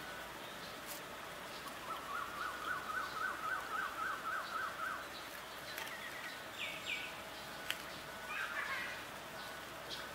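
A bird singing a fast run of repeated rising notes, about four a second for some three seconds, followed later by a couple of short downward-sliding calls and chirps, over steady outdoor background noise.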